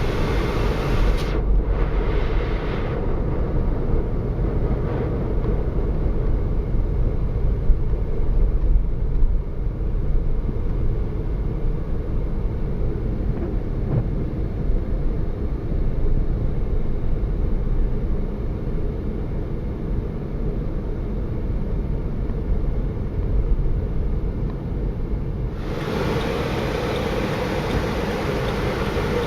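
Inside a moving car: the steady low rumble of engine and tyres on the road. A brighter hiss joins near the end.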